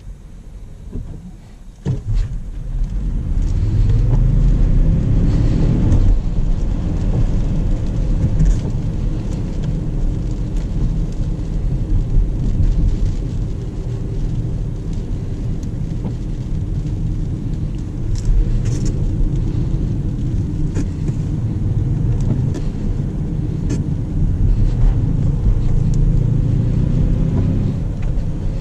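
2019 Jaguar I-Pace electric SUV driving, with a steady low rumble of tyres and road. About two seconds in, a tone rises as the car picks up speed.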